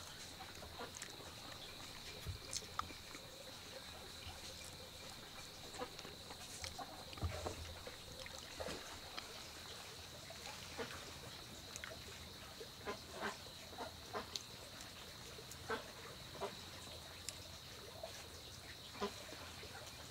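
A person biting into and chewing juicy fruit: irregular wet smacks, slurps and crunchy clicks from the mouth, close to the microphone. A steady high-pitched drone runs underneath.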